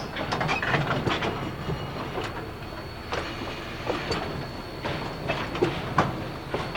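Narrow-gauge train of empty log cars rolling along the rails, with irregular clanks and knocks from the wheels and couplers and a faint high, steady squeal.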